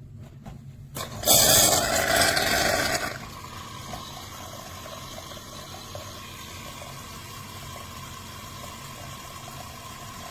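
De'Longhi Rivelia espresso machine's automatic milk frother frothing milk: a loud hiss for about two seconds, then a steadier, quieter hissing with a faint hum that stops near the end.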